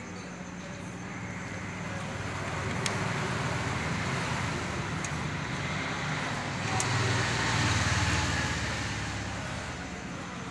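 A passing motor vehicle: its engine hum and road noise rise to a peak about eight seconds in, then fade. A few light clicks sound over it.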